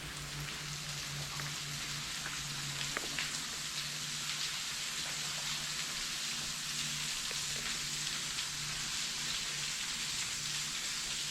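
Water falling and splashing steadily onto rock, heard as an even hiss like rain, with a few faint drips.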